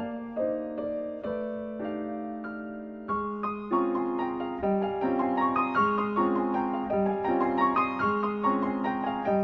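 Background piano music: gentle struck notes and held chords, sparse at first, then busier and a little louder about three seconds in.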